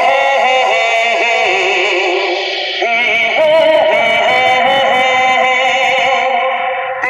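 Recorded singing played loud through JBL loudspeakers as a vocal test in a sound check: long held notes with a wavering vibrato over a sustained backing, with no drum beat.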